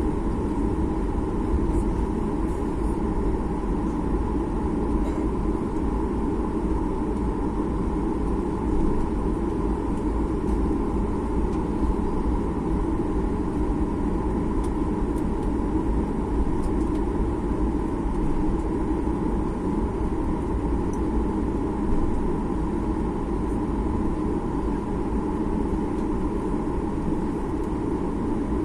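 Steady cabin noise inside a Boeing 737 MAX 8 airliner: an even rumble of its CFM LEAP-1B engines and airflow, holding at a constant level.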